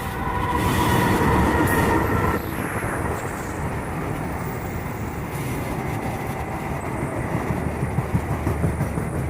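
Passenger train hauled by two diesel locomotives passing close by. A steady high tone sounds for about the first two seconds and cuts off sharply, over a continuous heavy rumble of the train. Near the end the wheels clatter rhythmically over the rail joints.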